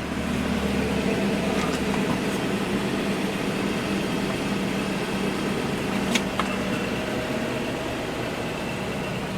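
Engine of a Blue Bird Micro Bird small school bus idling steadily, heard from inside the cabin, running well. A brief click sounds about six seconds in.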